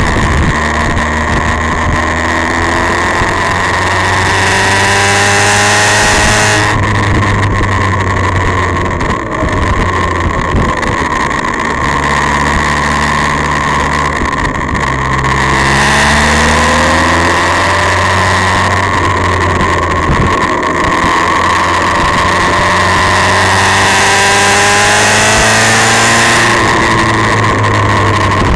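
Motorcycle engine running under load along a winding road, its pitch climbing as it accelerates three times and falling away between, with heavy wind rush on the microphone that swells at speed.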